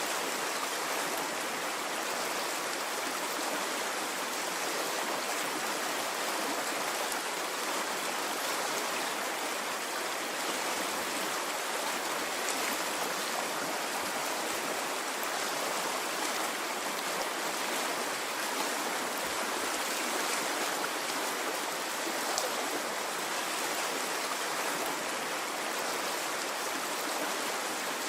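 A stream's running water, a steady rushing with no swells or pauses.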